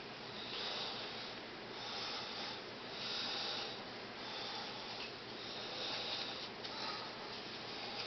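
A person's breathing close to the microphone, rising and falling about every second and a half, over a steady hiss.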